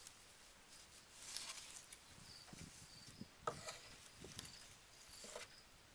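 Near silence with faint cricket chirps every second or so and a few soft rustles and knocks in the middle.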